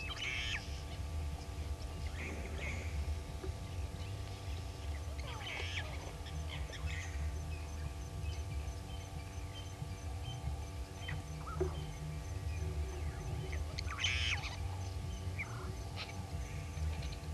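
Short, harsh bird calls every few seconds, the loudest about 14 seconds in, over a steady low rumble and hum. A faint, fast, high ticking joins about five seconds in.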